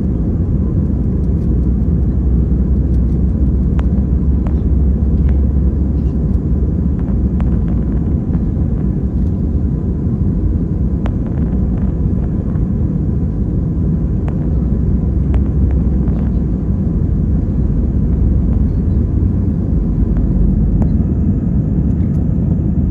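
Steady low rumble of an Airbus A320 airliner heard from inside the passenger cabin: engine and airflow noise, with a faint steady tone and a few light clicks.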